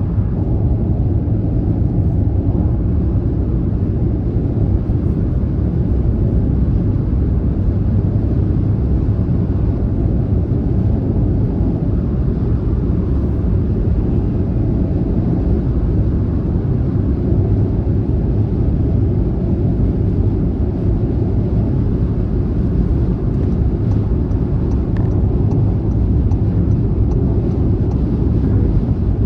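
Steady low rumble of a car cruising on a motorway: tyre and road noise with engine drone, even throughout.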